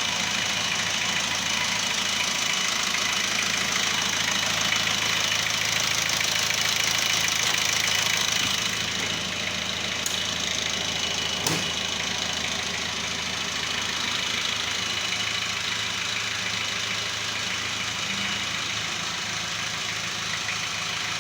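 Chevrolet LUV engine idling steadily, with one short sharp click about eleven seconds in.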